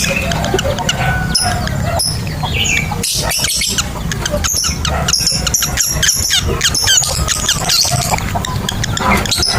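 Lovebirds chirping and chattering: a busy run of short, shrill chirps and quick rising and falling whistles, thickest in the middle of the stretch, over a steady low hum.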